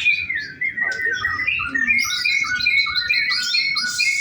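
White-rumped shama (murai batu) singing: clear whistled notes, turning about a second and a half in to a quick run of repeated two-note phrases, roughly three a second.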